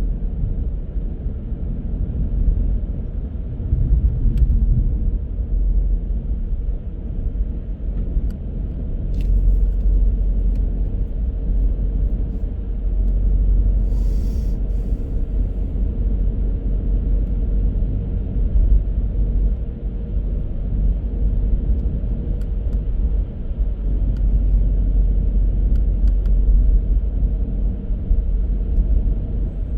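Steady low rumble of a car driving, tyre and engine noise, with a faint steady hum, a few light clicks and a brief hiss about fourteen seconds in.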